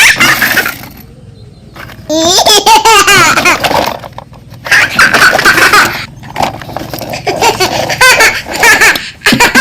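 High-pitched, wavering laughter in several loud bursts, like a cartoon character's laugh.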